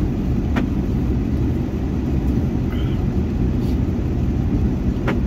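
Steady low rumble of a pickup truck's engine and road noise heard from inside the cab while driving, with two short clicks, one about half a second in and one near the end.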